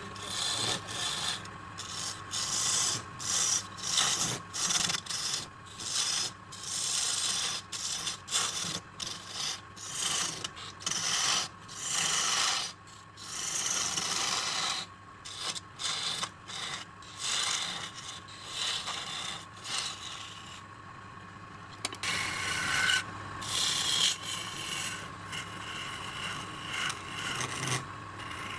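Turning tool scraping against a redwood burl spinning on a wood lathe, in repeated strokes about one or two a second, over the lathe's steady motor whine; the strokes ease off briefly about two-thirds of the way through.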